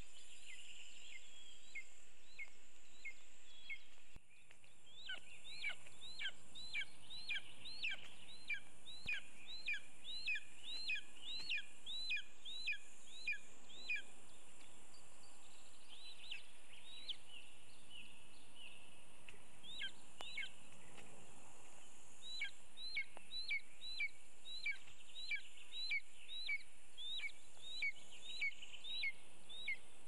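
A bird calling runs of sharp, high, down-slurred notes, about two a second, with pauses between runs, over a steady high hiss of forest ambience. The background drops out briefly about four seconds in.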